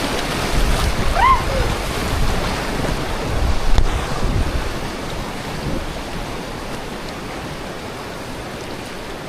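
River water rushing past, with wind rumbling on the microphone; louder in the first half and easing off after about five seconds. A short call, rising and falling in pitch, about a second in.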